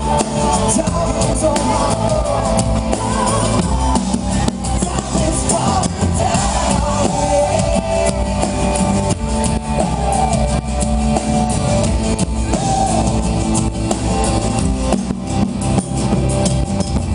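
Live pop-rock band playing an instrumental passage: a drum kit keeping the beat under sustained chords and a wavering melodic line.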